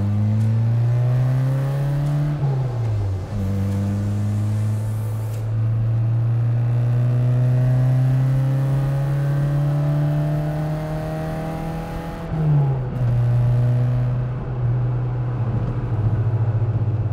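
Fiat 128 Rally's Lampredi overhead-cam four-cylinder engine accelerating through the gears. The revs climb, drop with a gear change about two and a half seconds in, then rise in one long pull. A second shift comes about twelve seconds in, after which the engine runs at steady revs.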